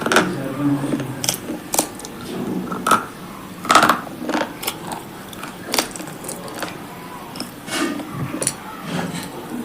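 Close-miked biting and crunching of brittle slate pieces: a string of sharp, irregular crunches, about a dozen, with softer chewing between.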